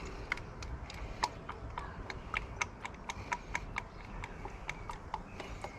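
Engine oil glugging as it pours from a bottle into the filler neck: a quick, uneven run of small hollow pops, about four or five a second, over a low background hum.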